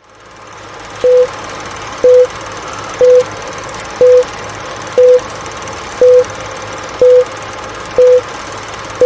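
Electronic beep sound effect: a short beep at the same pitch once a second, nine times, over a steady hiss.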